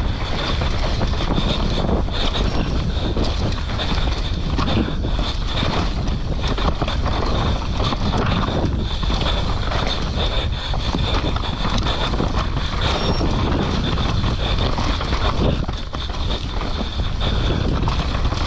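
Wind rushing over the microphone of a mountain biker's helmet camera during a fast downhill run, with tyres on dirt and the bike clattering over rough ground.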